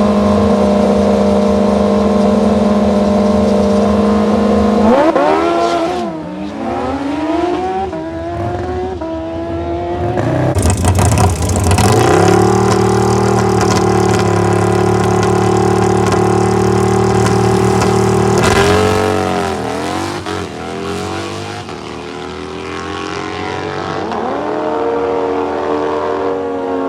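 Engines of drag-racing vehicles at a drag strip: a steady engine drone whose pitch swoops down and back up about five seconds in, again about two-thirds through and near the end, with a louder stretch in the middle.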